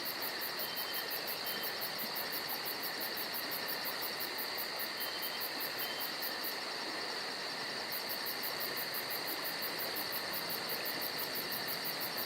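Insects trilling in a steady, unbroken chorus with a fast, even pulse.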